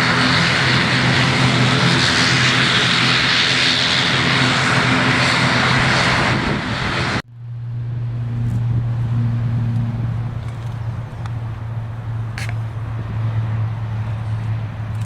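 ATR 72-500's twin turboprop engines and propellers running at high power: a loud, steady engine noise over a low propeller hum. About seven seconds in it cuts off abruptly, and a quieter steady low hum carries on.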